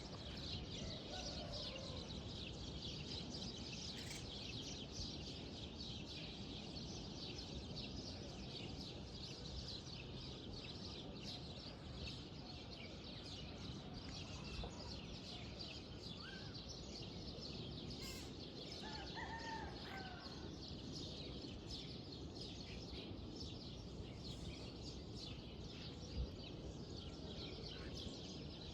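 Outdoor ambience of many small birds chirping rapidly and continuously over a steady background noise, with a few clearer bird calls a little past the middle.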